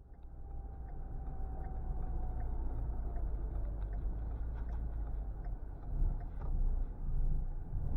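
Steady low rumble with scattered faint clicks, like a running vehicle heard from inside.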